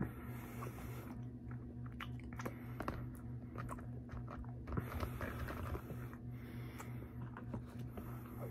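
Close-miked mouth sounds of a person chewing a mouthful of food, with many small wet smacks and clicks. A steady low hum runs underneath.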